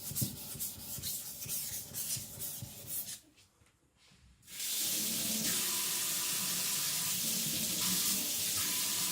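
A Victorinox Chinese cleaver's blade is stroked back and forth on a wet whetstone in quick repeated rubs for about three seconds. After a short pause, water runs steadily from a tap until the end.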